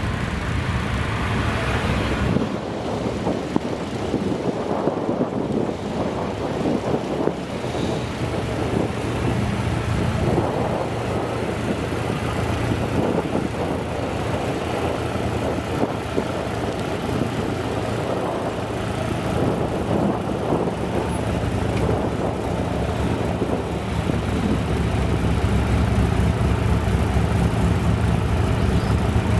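Classic car engine running at low revs with a steady low note, growing louder in the last few seconds.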